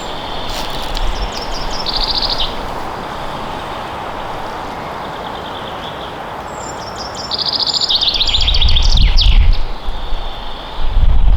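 Songbirds singing in a forest: a short fast trill about two seconds in and a longer run of rapid high notes later, over a steady hiss of forest ambience. A loud low rumble comes in near the end.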